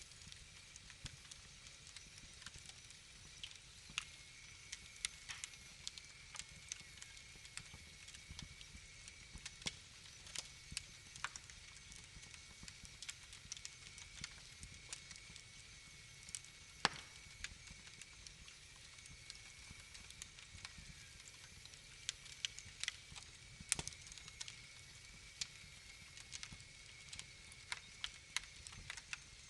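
Wood fire crackling: irregular pops and snaps over a soft hiss, with a couple of sharper, louder pops in the second half.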